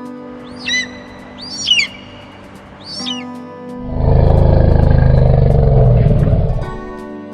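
Animal calls over background music: three short, high chirps, each swooping in pitch, in the first three seconds, then a loud low rumbling call starting about four seconds in and lasting nearly three seconds.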